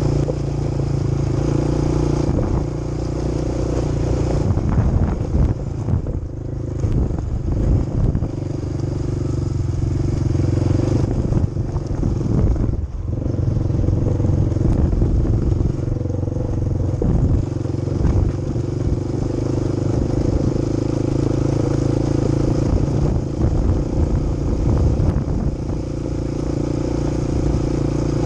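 Quad bike engine running under way, a steady drone with small changes in pitch as the throttle varies and a brief dip about twelve seconds in.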